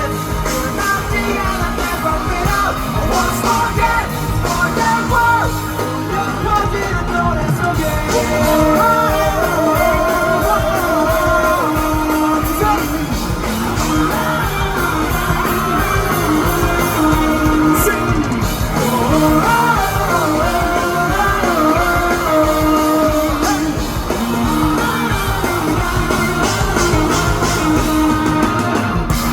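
Live rock band playing loudly, with singing over the full band.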